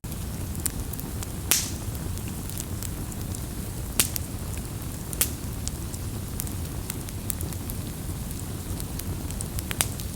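Campfire crackling: burning wood gives off many sharp pops and snaps, a few of them much louder, over a steady low rumble of the flames.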